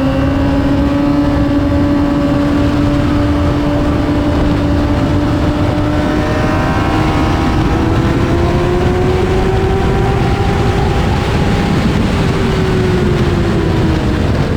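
2008 Honda CBR600RR's inline-four engine held at high revs on track, its pitch climbing slowly through the middle and dropping off near the end as the throttle closes. Heavy wind rush over it.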